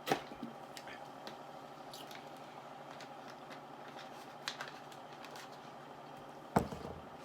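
A few sharp clicks and knocks over a steady hum: the loudest comes right at the start, a smaller one about four and a half seconds in, and another loud one about six and a half seconds in.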